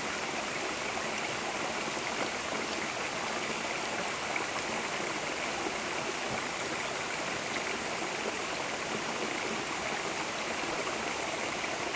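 Steady rush of running water from a forest stream, even and unbroken.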